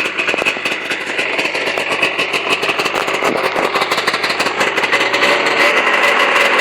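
Ski-Doo Skandic snowmobile engine running just after a one-pull cold start, with a rapid, crackly firing. About five seconds in, a steadier note comes in and it gets slightly louder.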